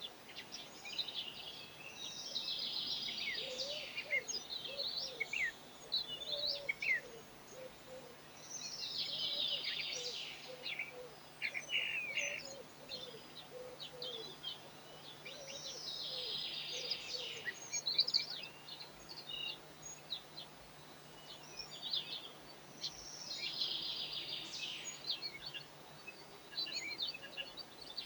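A songbird singing the same short, dense, downward-sweeping phrase four times, about every seven seconds.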